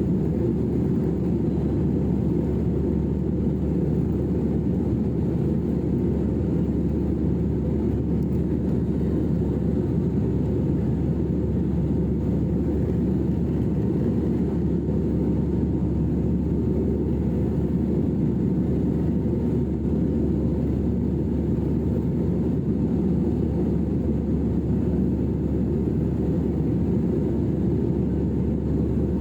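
Steady low rumble of a jet airliner in flight, engine and airflow noise heard inside the cabin.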